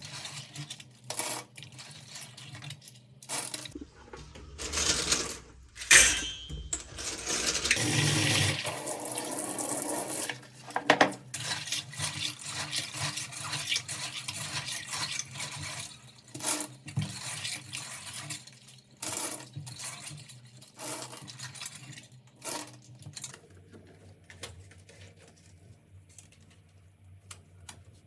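Hard plastic keyboard parts clinking and knocking as they are washed in water. A stretch of splashing or running water comes about eight to eleven seconds in.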